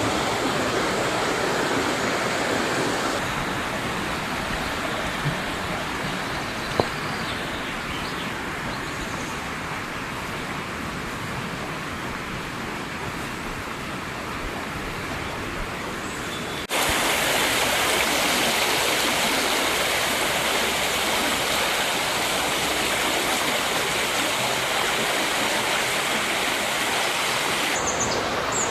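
River water rushing over rocks, a steady full rush. About two-thirds of the way through it cuts abruptly to a louder, hissier stretch of rushing water, with a couple of faint clicks earlier on.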